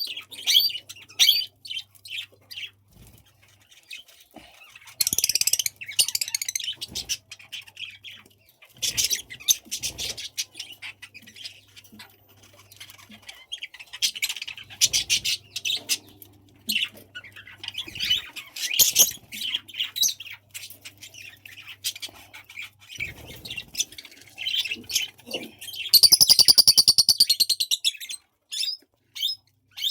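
Budgies chirping and chattering in many short, quick high calls, with a louder rapid buzzy trill near the end.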